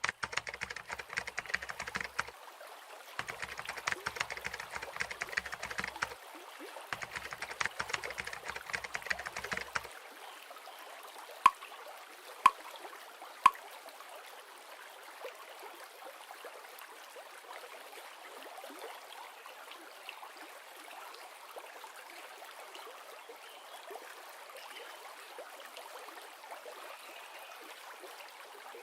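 River stream running steadily, with three runs of rapid clicking, like typing on a keyboard, in the first ten seconds. About halfway through, three short beeps come a second apart.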